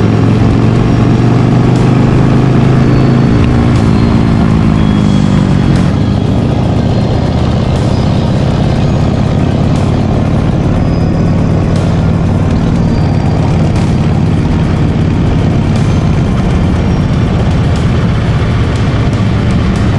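Motorcycle engine running while riding, its pitch shifting up and down over the first few seconds and then holding fairly steady.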